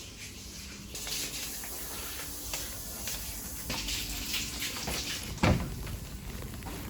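A run of light clicks and knocks from things being handled, with one louder thump about five and a half seconds in.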